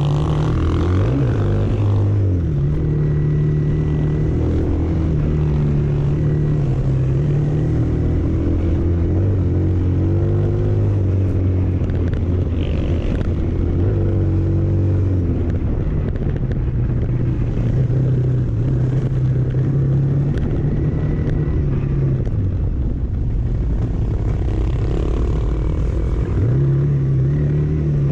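A motor vehicle's engine running steadily while driving, its note stepping up and down in pitch several times.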